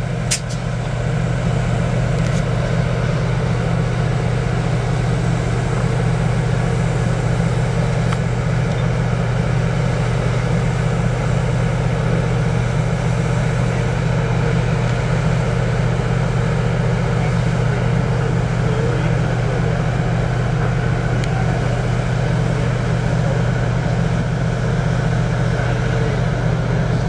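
Canadian Pacific cab-unit diesel locomotives and heavyweight passenger cars of a passenger train rolling past, a steady low rumble that does not let up.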